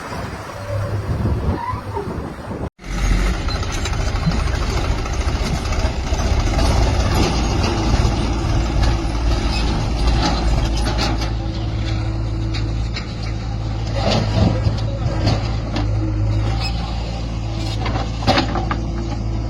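Heavy diesel machinery running steadily, with scattered knocks and clanks. An abrupt cut about three seconds in changes the sound, and the low engine hum carries on after it.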